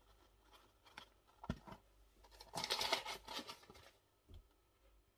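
Corn flour being added to raw chicken wings in a bowl: a few light taps, then a brief dry rustling hiss about halfway through.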